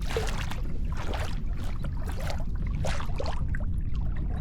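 Small water splashes and lapping around a kayak, irregular and short, over a steady low rumble of wind on the microphone.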